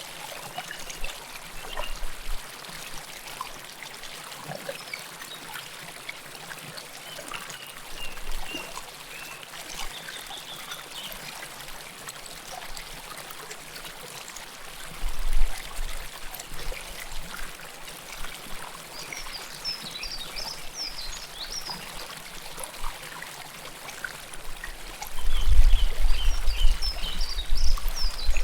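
River water flowing and trickling close to the recorder in a steady babble with small splashes. Low rumbling bursts come about halfway through and again, louder, near the end.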